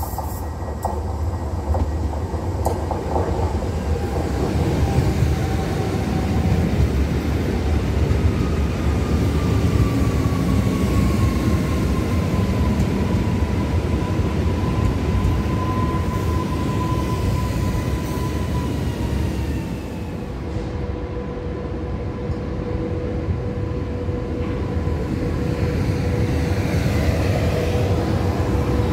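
Coupled Newag Impuls 36WEa electric multiple units running at low speed: a steady rumble of wheels on track under a thin traction-motor whine that slides down in pitch and then holds level. About two-thirds of the way through, the sound changes and a lower steady whine takes over.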